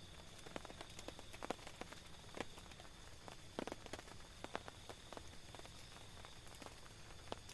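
Raindrops tapping on a tent: scattered, irregular single drops over a faint steady hiss of rain.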